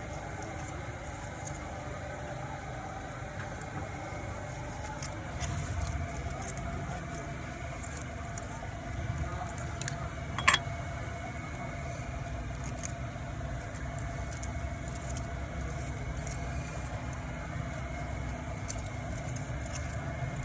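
Car engine idling steadily, with scattered light metallic clicks and one sharp click about halfway through.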